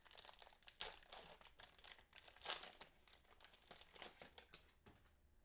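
Crinkling and rustling of a cellophane-wrapped trading card pack and the cards inside being handled, in quick irregular bursts that die away shortly before the end.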